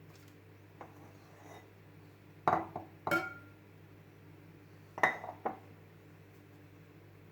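Dishes and glassware being set down and handled: a cluster of hard knocks and clinks about two and a half seconds in, one ringing briefly, then two more knocks about five seconds in, over a low steady hum.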